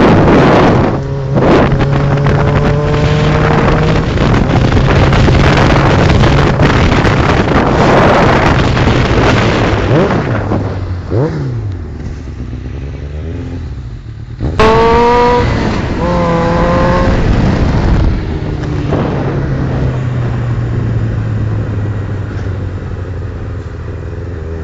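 Loud vehicle engine running and being revved repeatedly, the pitch rising and falling with each blip of the throttle; the revving is strongest about two-thirds of the way through, after a short drop in level.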